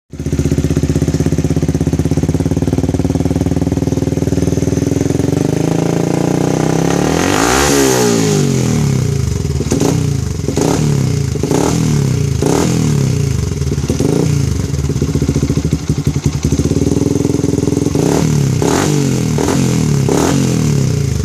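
Yamaha Vixion's single-cylinder four-stroke engine breathing through an aftermarket high-performance exhaust: idling steadily, revved up and back down once about seven seconds in, then given a series of short, sharp throttle blips.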